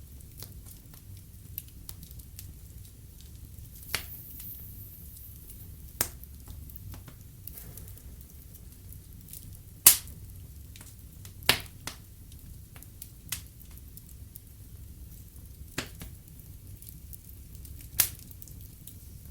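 Wood fire burning in a fireplace: a low steady rumble of flames with irregular sharp crackles and pops from the burning logs, the loudest pop about halfway through.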